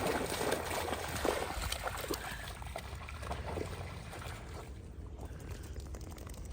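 Water sloshing and splashing as a dog wades through floodwater, growing quieter about four and a half seconds in.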